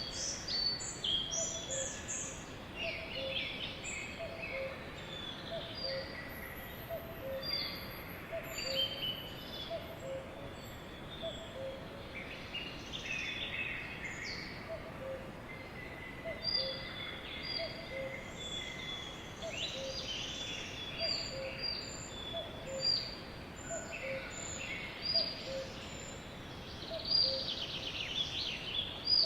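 A flock of sparrows chirping busily, many overlapping short high chirps over a steady outdoor background hiss. Under them a low note repeats about once a second.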